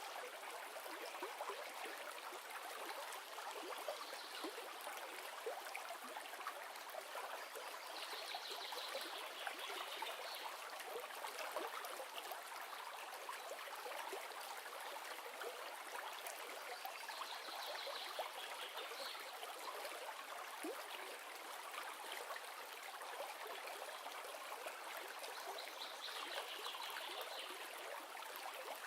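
River water flowing and babbling in a steady rush. A brief high chittering sound comes and goes about four times over it.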